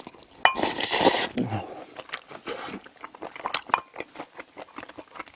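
Close-miked chewing and wet mouth noises of someone eating stir-fried octopus with rice, with many small clicks. A louder rushing burst comes about half a second in, and a short low falling hum follows it.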